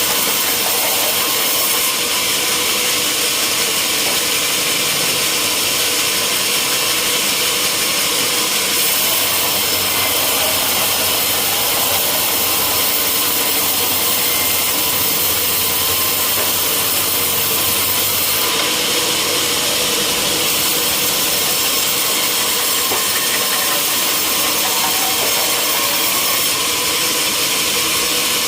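Sawmill saw running steadily and cutting timber, a loud continuous noise that holds an even level throughout.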